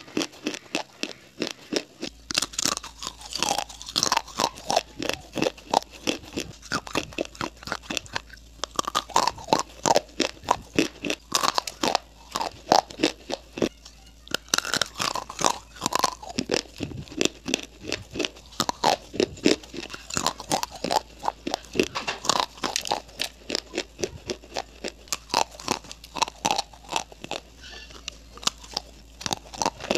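Close-miked crunching and chewing of baked clay pipes coated in a creamy paste: a quick, unbroken run of sharp crunches, several a second, as the dry clay breaks between the teeth.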